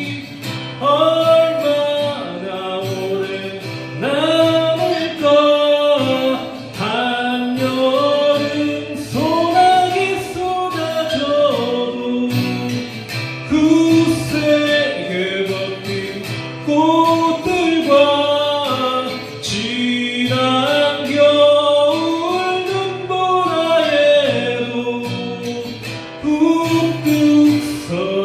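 A song sung with acoustic guitar accompaniment: a voice carries the melody over steady guitar playing.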